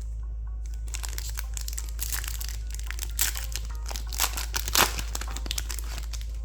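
Plastic booster-pack wrapper of a trading-card pack crinkling as it is handled and opened, a run of crackles with a few sharper crunches, the loudest near the end.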